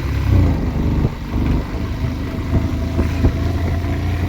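Motorcycle engine running steadily under load as the bike climbs a hill road, a continuous low rumble.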